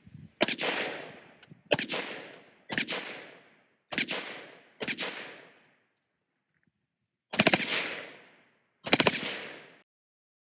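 Suppressed select-fire 5.56 carbine shooting: about five single shots roughly a second apart, then two short full-auto bursts of several rounds each, every shot trailing off in a long echo.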